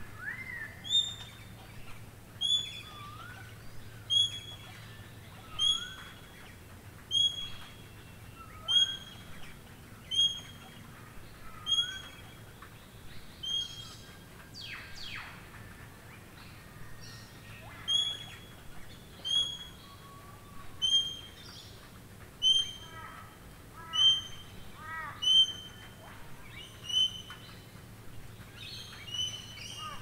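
Birds calling in the rain: one bird repeats a short, high note about every one and a half seconds while others add varied chirps and rising whistles, over a steady hiss of rainfall.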